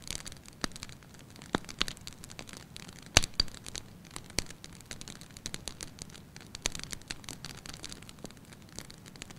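Wood fire in a fireplace crackling, with irregular sharp pops and snaps over a soft steady hiss; the loudest pop comes about three seconds in.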